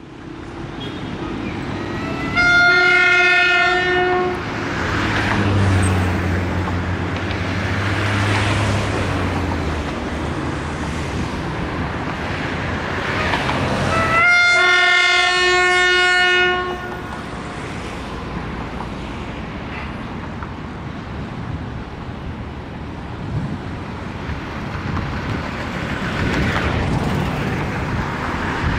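EMD J26CW/AC diesel locomotive arriving and sounding its horn twice, each blast a chord of about two seconds, some twelve seconds apart. Between and after the blasts come the low drone of the diesel engine and the steady rolling noise of the train.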